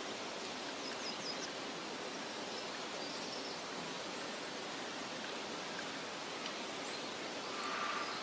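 Steady, even outdoor meadow ambience hiss. A few faint, brief high bird chirps come about a second in, around three seconds and near seven seconds, and a short louder call comes near the end.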